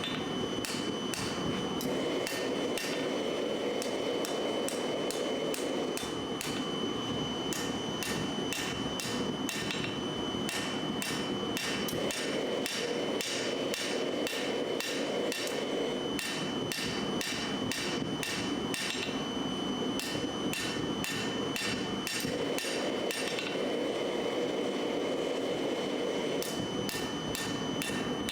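Hand hammer striking hot steel on an anvil while forging a knife blade, about two to three ringing blows a second with a few short pauses. A steady rushing noise runs underneath.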